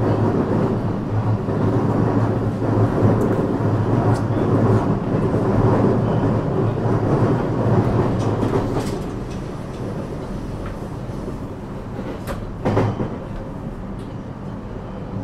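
Running sound of a JR West 321 series electric train heard from inside the car: a steady rumble of wheels on rail with a low motor and gear hum. A few sharp rail-joint clicks come through, and the noise drops noticeably about nine seconds in.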